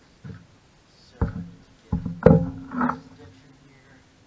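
Three sharp metal clanks from tools and engine parts being handled, the last and loudest ringing briefly.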